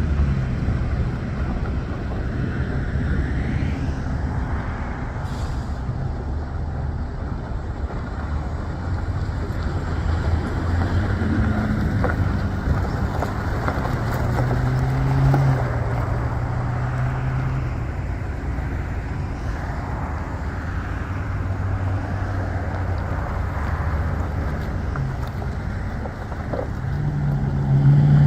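A 2012 Chevy 3500HD service truck's engine running steadily, getting louder near the end.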